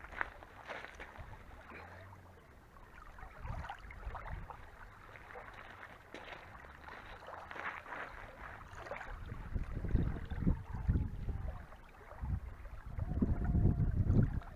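Wind buffeting the microphone outdoors. It is light at first, then comes in strong low gusts from about two-thirds of the way in.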